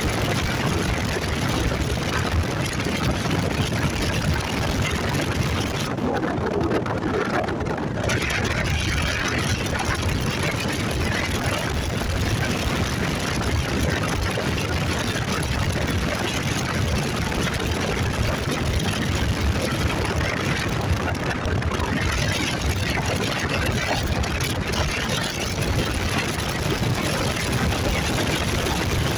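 Motorcycle running while being ridden, under a steady rush of wind and road noise on the microphone.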